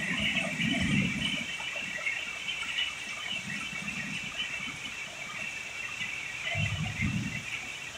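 Heavy thunderstorm rain pouring steadily, with a few low rumbles swelling and fading: near the start, around the middle and about seven seconds in.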